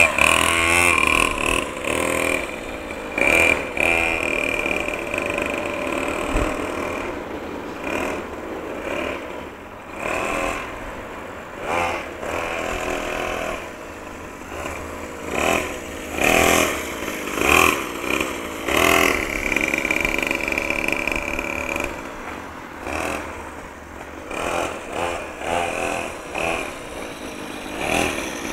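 Engine of a child's small motocross bike running as it is ridden. The engine note rises and falls, swelling and fading again and again with on-and-off throttle.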